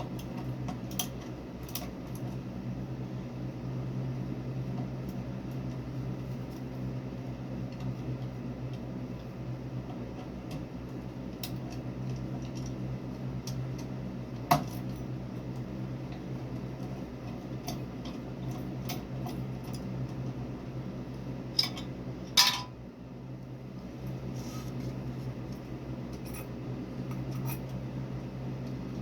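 Scattered light metallic clinks and taps over a steady low hum. There is a sharper clink about halfway through, and the loudest few come close together about three quarters of the way in.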